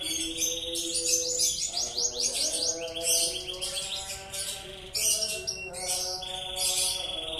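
Domestic canary singing a long, continuous song of fast trills and rapid repeated notes.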